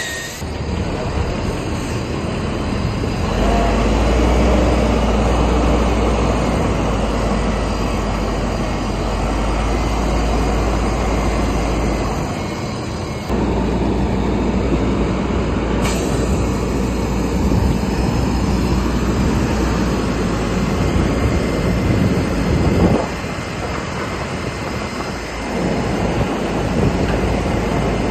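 Bulldozer working, its diesel engine running under load while the steel crawler tracks clank and squeal.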